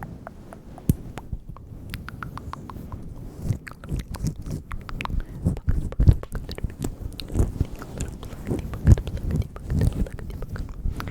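Close-microphone ASMR mouth sounds: a dense run of irregular wet clicks and smacks from tongue and lips, growing busier and louder after the first few seconds.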